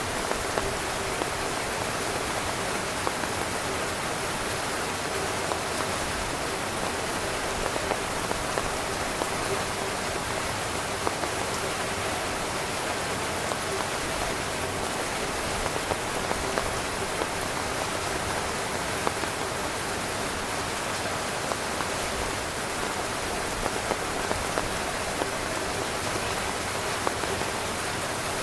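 Heavy rain drumming steadily on a tent's fabric, a dense even patter with scattered louder individual drops.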